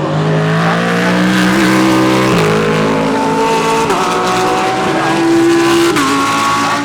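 Several GT3 race cars passing at full throttle, their engines overlapping and climbing in pitch, each rise broken by an upshift about two and a half, four and six seconds in.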